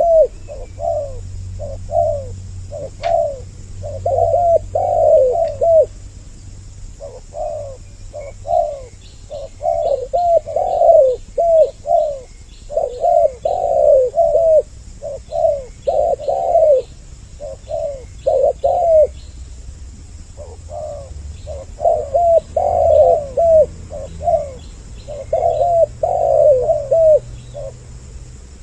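Two spotted doves cooing, phrase after phrase of several coos, with short breaks about six and nineteen seconds in. Faint high ticks of a small bird sound behind them through the middle, over a low hum.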